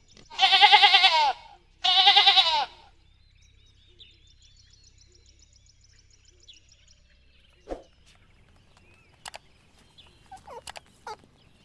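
A goat bleating twice: two loud, wavering calls, each about a second long, in the first three seconds. Faint bird chirps follow, and a few soft clicks come near the end.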